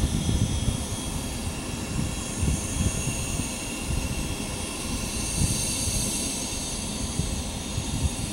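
Boeing 737-800's jet engines, a steady rumble with a faint high hiss, as the airliner rolls down the runway after landing.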